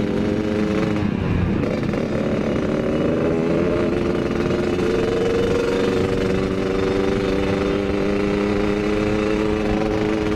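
Yamaha RX-King's two-stroke single-cylinder engine running through its exhaust while riding. The revs dip briefly about a second in, then hold steady at a cruising pitch.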